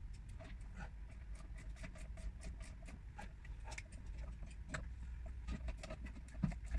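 Light, irregular clicking and tapping of hand tools on metal during car repair work, several small clicks a second over a low hum.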